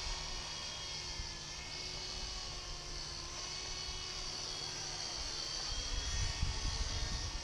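Small electric WLtoys V912 RC helicopters in flight, their motors and rotors making a steady high-pitched whine with several tones that shift slightly in pitch. Near the end a low rumble with a few bumps rises under it.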